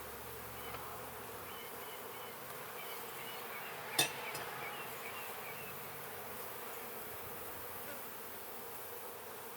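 Honey bees buzzing steadily around an open hive during a frame inspection. A single sharp knock comes about four seconds in.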